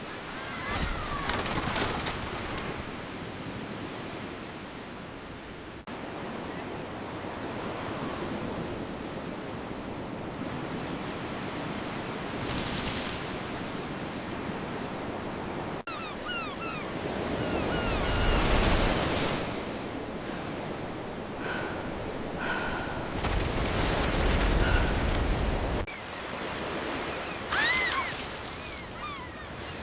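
Steady rushing noise of surf and wind that swells and fades in waves and breaks off sharply a few times. Brief high calls cut through it now and then.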